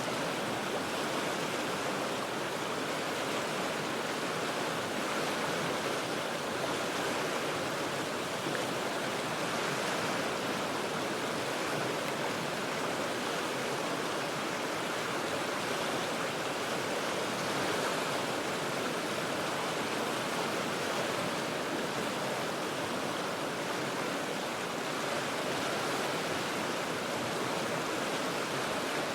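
Steady rushing of a river's current over rocks, heard from high above the water, an even wash of noise that hardly changes.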